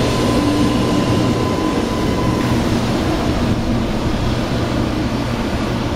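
0 Series Shinkansen electric train running through the station as it departs: a steady rumble of wheels and motors, with a faint high tone that fades about two and a half seconds in.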